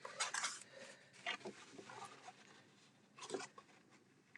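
Paper being handled and folded, a few short rustles and crinkles, the clearest near the start and another about three seconds in.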